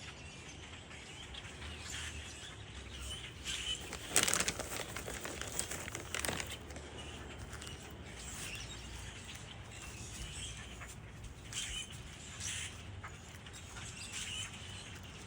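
Birds' wings flapping in two brief flurries about four and six seconds in, over faint, scattered short chirps.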